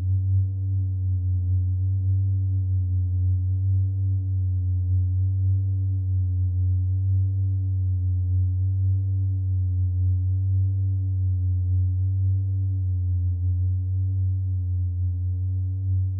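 A steady, deep electronic drone, like an ambient synthesizer pad, with fainter higher tones above it that slowly waver up and down in pitch.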